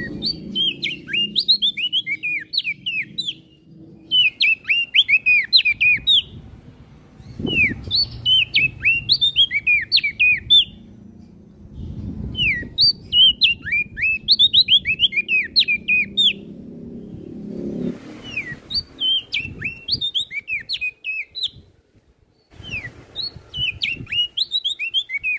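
Prenjak daun singing: repeated phrases of quick, high, down-slurred chirping notes, each phrase two to three seconds long with short pauses between, over a low background rumble.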